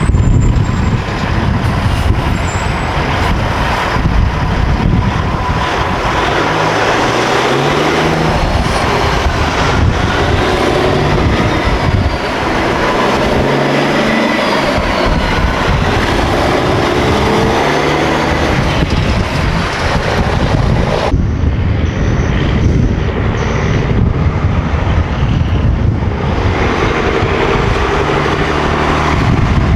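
Heavy semi trucks' diesel engines pulling past over steady road noise, the engine note stepping up and down as they work through the gears. The sound changes abruptly about 21 seconds in.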